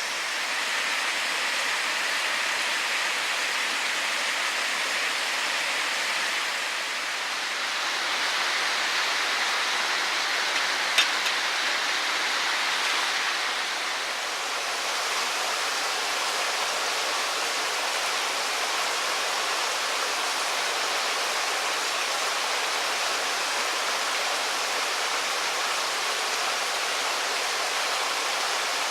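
Steady rushing of a waterfall and its mountain stream, a continuous hiss of falling and running water, with one brief sharp click about eleven seconds in.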